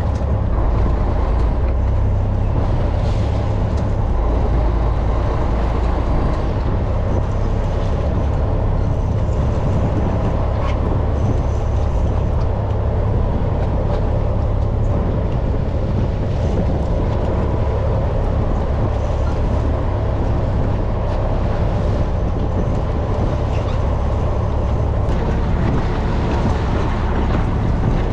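A fishing boat under way: its engine gives a steady, loud low drone, mixed with wind and water noise.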